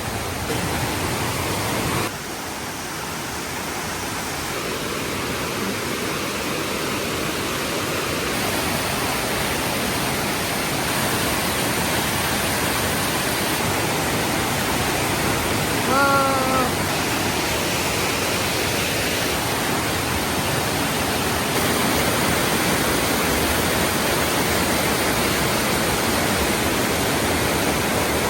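Steady rushing noise of water, growing slightly louder, with a short voice-like sound about halfway through.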